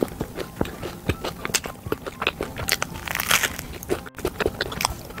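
Close-miked eating sounds of chewing a cream-filled yellow-cheese bagel: a steady run of small mouth clicks and bites, with a brief noisier burst about three seconds in.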